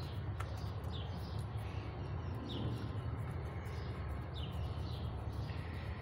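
A bird chirping over and over, short falling chirps every second or two, over a steady low rumble. One light click about half a second in.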